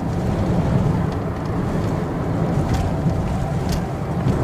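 Steady road and engine rumble inside a Hyundai i20 petrol hatchback at highway speed, with a few faint clicks in the second half.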